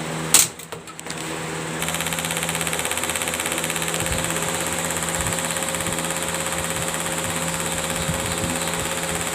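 Electric box fan with a fork caught in its spinning blades: a loud bang about half a second in, then from about two seconds a fast, even clatter of the blades hitting the fork over the motor hum.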